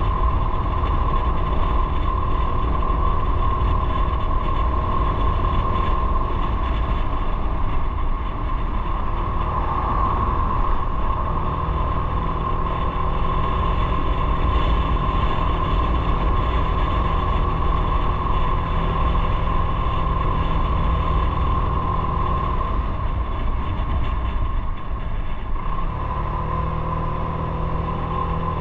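Motorcycle riding on the road: the engine runs steadily under a heavy low rumble of road and wind noise, and its note shifts a couple of times as the pace changes.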